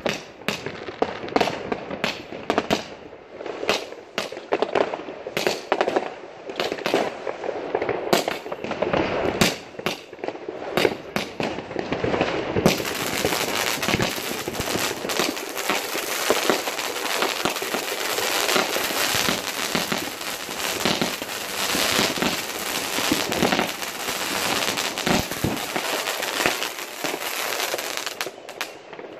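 New Year's fireworks: a rapid run of sharp bangs and cracks. From about halfway it becomes a denser, near-continuous crackle.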